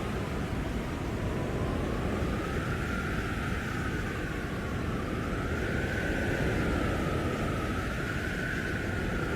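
Blizzard wind howling: a wavering whistle that swells and dips in pitch every couple of seconds over a steady rushing noise.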